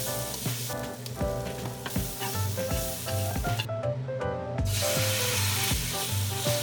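Food sizzling as it fries in a pan, under background pop music with a steady beat. The sizzle drops out for about a second near the middle, then comes back.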